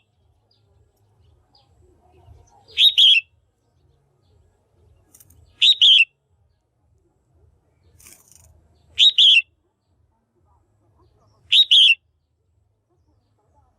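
Female red-whiskered bulbul calling: four loud, short two-note calls, spaced about three seconds apart, of the kind used to stir up a male bulbul or to pair birds.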